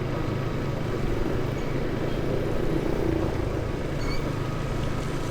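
Motorcycle engine running steadily while riding, with the rush of wind and road noise.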